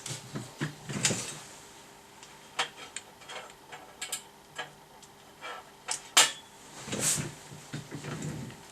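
Scattered clicks, knocks and light clatter of tools and parts being handled on a workbench, the loudest knocks about six and seven seconds in, over a faint steady hum.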